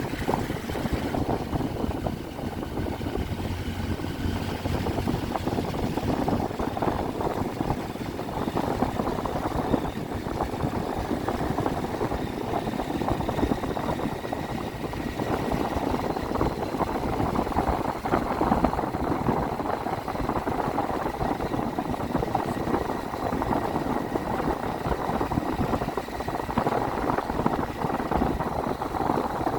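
Triumph Tiger 800's three-cylinder engine running steadily as the motorcycle is ridden, heard from the bike-mounted camera.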